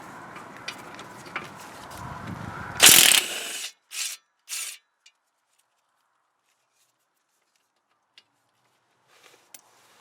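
A power tool working on a fastener: scattered faint clicks, then one loud burst about a second long, followed by two brief bursts.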